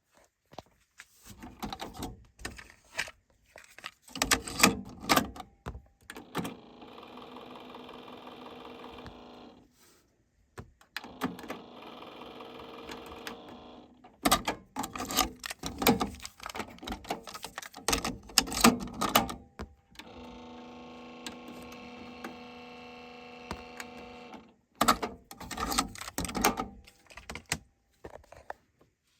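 Sony TC-WE625 dual cassette deck being operated: bursts of clicking and clunking from its buttons and transport mechanism, alternating three times with a steady motor-driven whir that runs for a few seconds each time.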